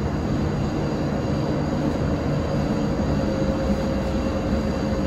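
Steady drone of a ship's engine-room machinery running, a continuous low rumble with a faint constant hum in the middle range.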